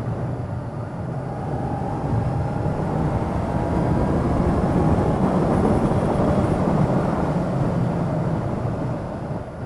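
Motorcycle under way: engine running with wind and road noise, the engine note rising early on and the sound growing louder through the middle before easing off near the end.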